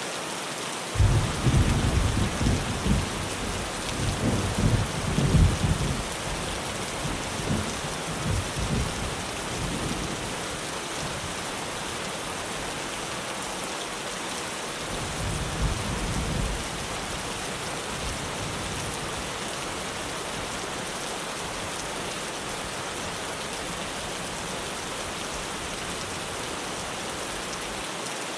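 Heavy rain drumming steadily on a tin roof, with a clap of thunder breaking in about a second in and rumbling away over several seconds, then a second, fainter rumble near the middle.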